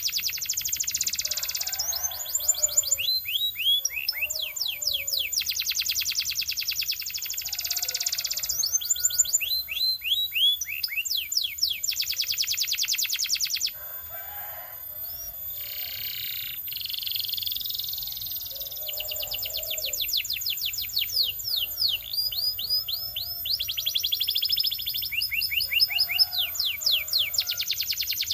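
A canary singing a long, continuous song of fast trills. It runs through changing rolls of rapidly repeated down-sweeping notes, each roll lasting a second or two, and goes softer for a moment about halfway through.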